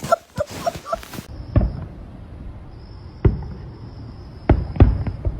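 A few short pitched squeaks, then four dull knocks spread over the next few seconds, with a faint steady high tone behind them.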